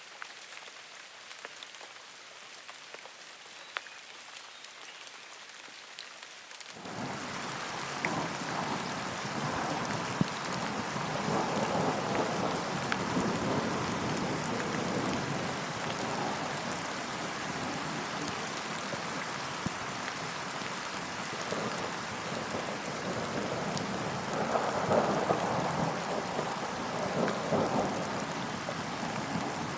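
Rain falling: a light patter of scattered drops, then about seven seconds in a sudden change to a heavy, steady downpour that swells louder in waves, especially near the end.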